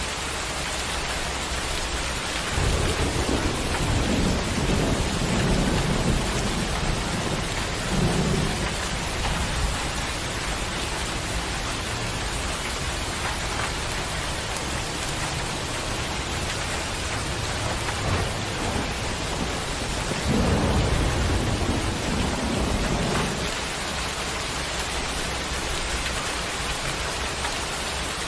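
Steady rain falling, with two low rolls of thunder. The first rumbles from about three to nine seconds in, the second from about twenty to twenty-three seconds in.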